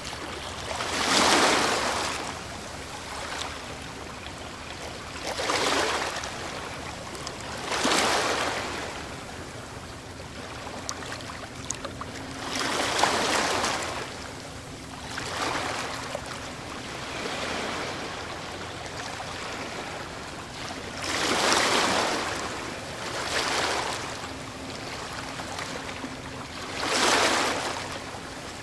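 Ocean waves breaking on a shore, each wave a swell of rushing surf every few seconds, about eight in all, over a steady wash of water.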